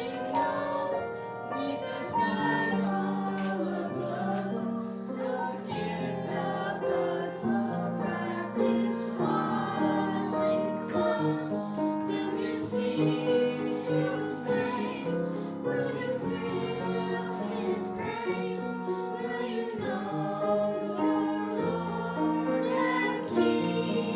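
Choir singing a slow song with instrumental accompaniment, several voices holding long notes together.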